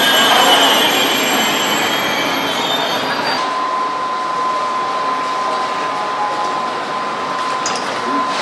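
Train moving along the platform with a high wheel squeal over the noise of its running. About three and a half seconds in the squeal stops and a single steady high tone begins and holds.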